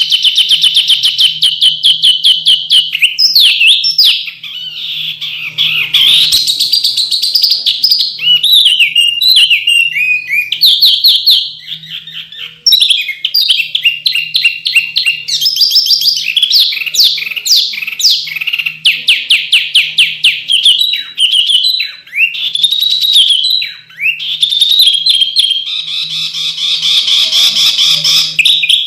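Caged songbird singing a fast, unbroken song of sharp rapid trills, repeated staccato notes and sweeping whistles. This is a 'masteran' tutor recording of sharp, dense 'tembakan' bursts, the kind played to train other songbirds.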